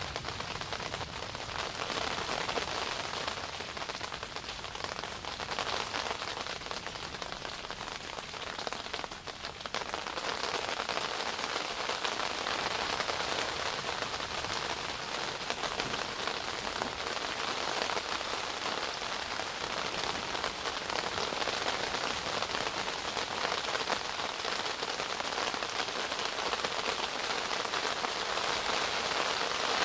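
Steady rain coming down pretty good on a tent, heard from inside. It eases slightly about nine seconds in, then picks back up.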